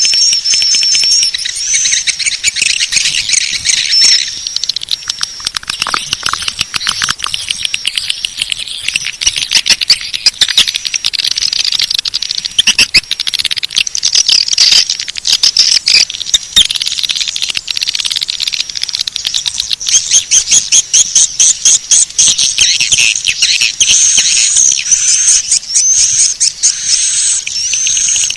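Swiftlet calling-sound lure track: dense, overlapping high-pitched twittering chirps laced with rapid clicks, running without a break.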